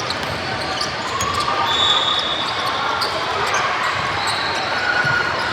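Spectators' voices calling and chattering, with scattered light knocks and clicks.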